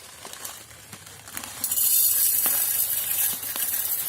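A steady high hiss comes in about one and a half seconds in, after a few light clicks.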